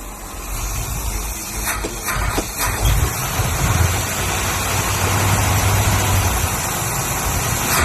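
The 1957 Ford Ranchero's engine running on fuel poured into the carburetor after sitting four years, a low rumble that dips at the start and picks back up about half a second in.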